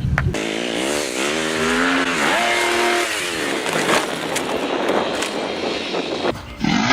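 Motorcycle engine running under throttle, its pitch dropping, climbing again as it revs, holding briefly, then falling away, over steady road and wind noise.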